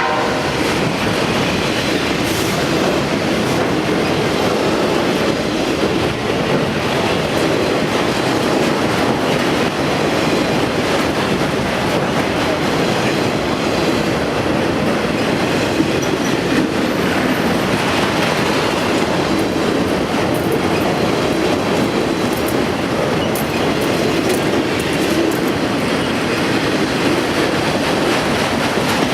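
A long train rolling past close by: a loud, steady rumble and rattle of steel wheels on rail, with clicking over the rail joints throughout.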